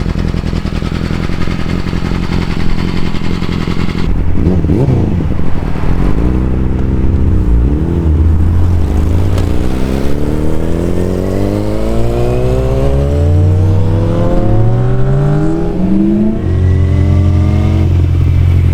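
Yamaha R6 inline-four with a cat-deleted Graves exhaust idling, then blipped a few times, then revved in one long climb over several seconds before it drops back to idle.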